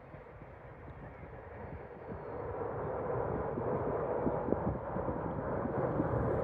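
Jet airliner engines, a steady rushing noise that grows louder over the first three seconds and then holds.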